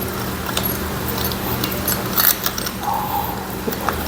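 Light metallic clinks of tools and small engine parts being handled, over a steady low hum.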